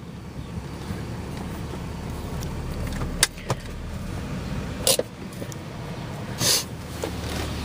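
1998 BMW 540i's 4.4-litre V8 idling steadily through a loud Magnaflow muffler, with a few sharp clicks and knocks, the loudest about five and six and a half seconds in.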